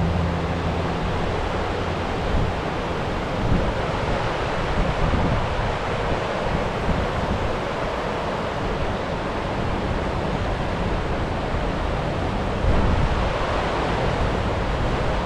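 Fast-flowing river water rushing steadily over rocks, an even, unbroken noise.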